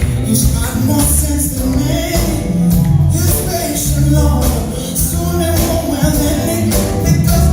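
Live rock band playing loudly, with heavy bass, drums and cymbals keeping a steady beat and a voice singing over it.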